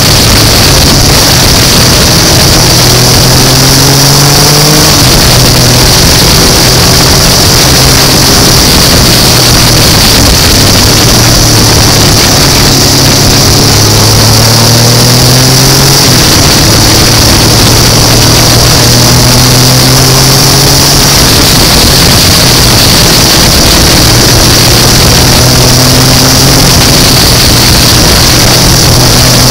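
Motorcycle engine heard from an onboard camera while riding, its pitch rising again and again as it accelerates through the gears and dropping back at each shift, under a constant loud hiss.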